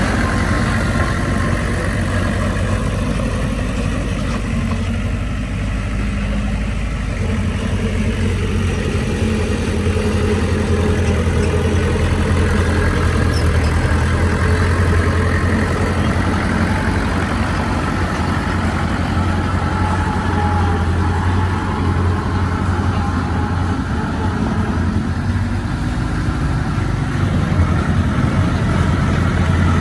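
Heavy diesel engine of earthmoving machinery running steadily, a deep, even drone with no big revs or stops.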